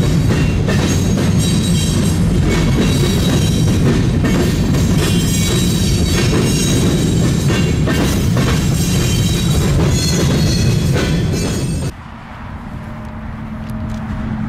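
Freight train's covered hopper cars rolling past close by: a steady rumble with many wheel clicks and some high squealing. About twelve seconds in, this cuts off abruptly, giving way to a quieter low steady hum from a distant diesel locomotive heading toward the listener.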